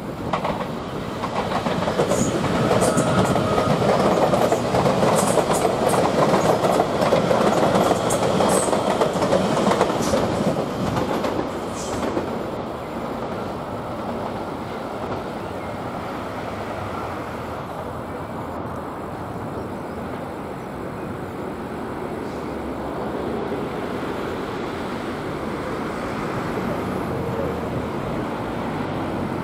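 Continuous rumbling and rattling of a moving vehicle, loudest over the first twelve seconds, then steadier and a little quieter.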